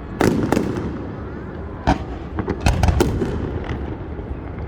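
Fireworks going off: a quick run of sharp bangs near the start, a single bang about two seconds in, and a crackling cluster of bangs around three seconds in.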